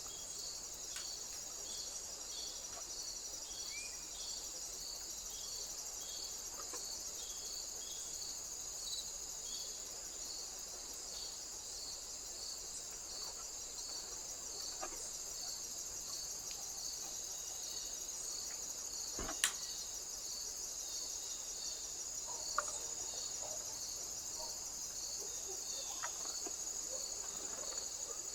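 Crickets stridulating: a steady, high-pitched, rapidly pulsing trill with a second insect chirping regularly, a little under two chirps a second. A sharp click about two-thirds of the way through, and a smaller one a few seconds later.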